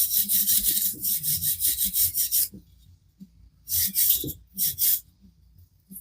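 Brass wire brush scrubbing the bare diecast metal body of a model car in quick back-and-forth strokes, about six a second for a couple of seconds, then a pause and a few more strokes, cleaning the furry old casting.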